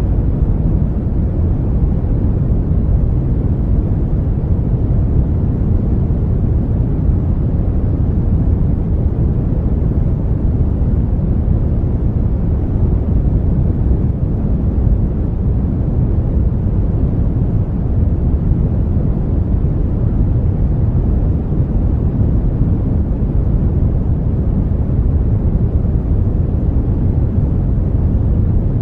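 Brown noise: a steady, even rumbling hiss, heaviest in the bass and dull in the treble, with no changes.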